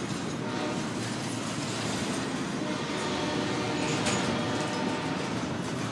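Cars of a CSX intermodal freight train rolling past: a steady noise of steel wheels running on the rails.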